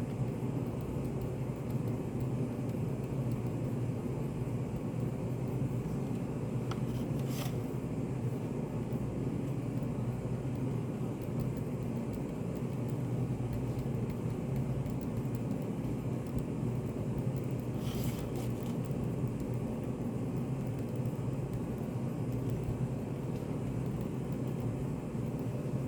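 Steady low hum of a study cafe's background room noise, the cafe's 'white noise'. Two brief faint small sounds break in, about seven seconds in and again around eighteen seconds.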